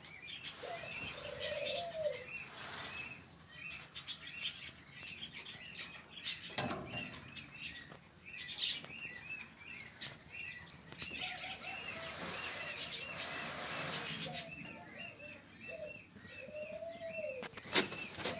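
Birds in an aviary: many small birds chirping in quick, repeated short notes, with a few longer, lower arched calls and brief bursts of wings flapping.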